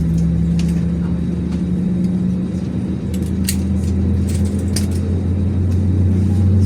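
Airbus A321's CFM56 turbofan engines heard inside the passenger cabin: a steady low drone whose hum rises slightly in pitch, with a few faint light rattles.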